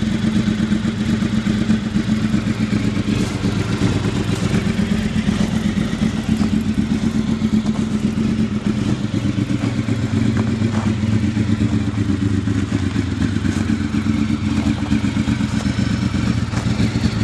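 Honda VFR750's V4 engine running steadily at an even, unchanging speed, with a fast regular pulsing beat and no revving.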